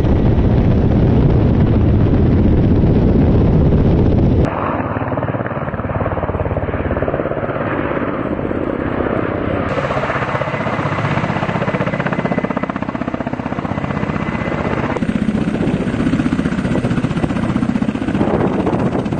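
Ka-52 attack helicopter's coaxial rotors beating rapidly over the steady run of its turbines. The sound changes abruptly a few times where separate shots are cut together.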